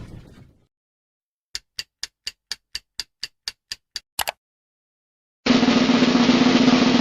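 Game-show sound effects: a clock-like ticking of about a dozen short, even ticks at roughly four a second, ending on a double tick. After a pause, a steady, loud snare drum roll starts about two-thirds of the way in.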